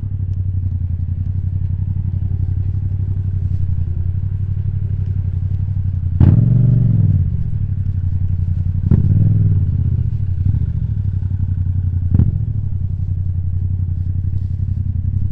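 Yamaha MT-07's parallel-twin engine with an Akrapovic titanium exhaust, idling steadily and blipped twice, about six and nine seconds in, the first rev the louder. A single sharp knock about twelve seconds in.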